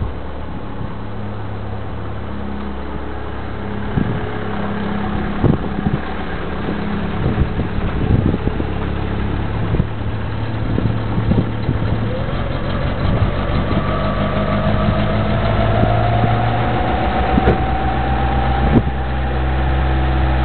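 A 1986 Reliant's engine idling steadily after sitting in winter storage since November, with scattered knocks and clicks. A thin higher whine joins about halfway through and holds.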